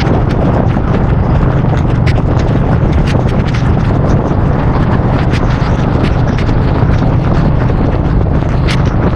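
Suzuki Boulevard C50's 805 cc V-twin running steadily at road speed, with wind rushing over the microphone. Scattered sharp ticks of rain hitting the camera run through it.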